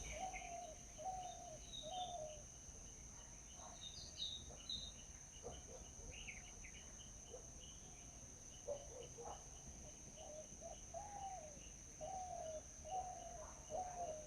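Birds calling: runs of short, low, arched notes near the start and again in the last few seconds, with scattered higher chirps in between, over a steady high-pitched insect drone.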